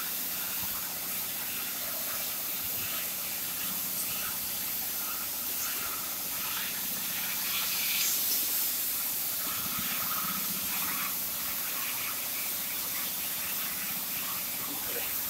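Steady hissing from a CNC profile cutting machine's torch, swelling slightly about halfway through.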